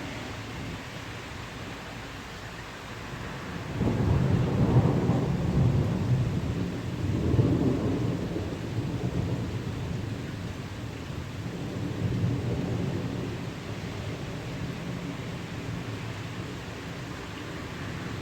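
Rolling thunder that begins about four seconds in, swells in several surges and slowly dies away, over a steady hiss of rain.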